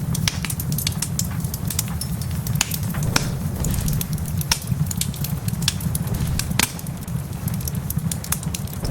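Wood fire crackling in a fireplace, with many irregular sharp pops over a steady low rumble and a soft hiss of rain.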